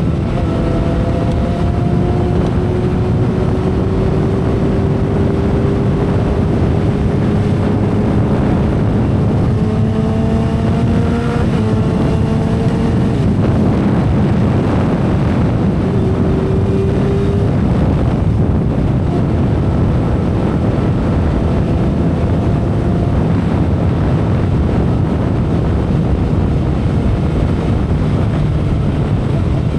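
2012 Kawasaki Ninja ZX-10R's inline-four engine running at expressway speed, heard under heavy wind rush on the microphone. The engine note climbs slowly over about ten seconds, dips briefly about eleven seconds in, then rises again.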